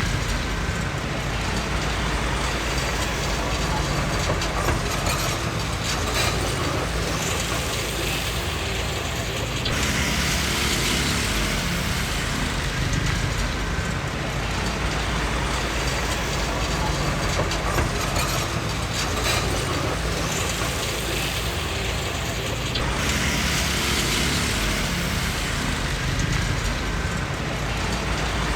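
Komatsu D20P crawler bulldozer working: its diesel engine running steadily under a continuous clanking and rattling of steel tracks and gear, with louder stretches of clatter that come and go.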